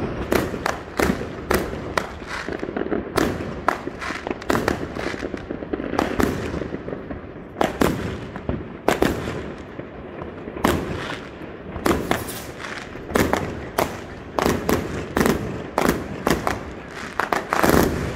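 Aerial fireworks going off over houses: a dense, irregular run of sharp bangs, often two or three a second, over a continuous low rumble of distant reports.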